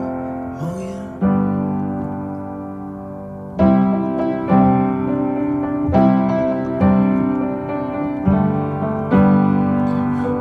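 Piano playing slow sustained chords, struck afresh every second or two: an instrumental passage of a soft pop song.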